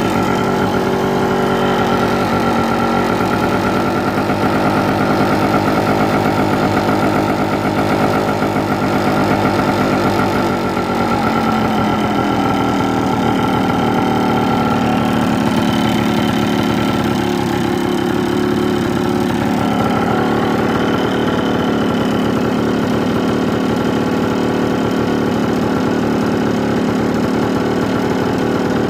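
Yamaha AG175's single-cylinder two-stroke engine idling steadily, its speed shifting slightly partway through.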